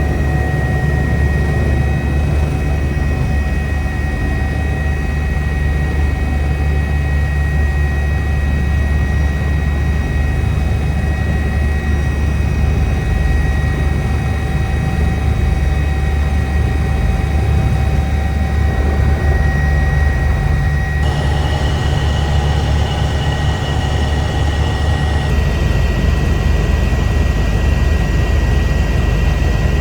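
Eurocopter EC145 twin-turbine helicopter in flight: a loud, steady low drone of the rotor with a steady high turbine whine over it. The character of the noise shifts abruptly twice, about two-thirds of the way through and again a few seconds later.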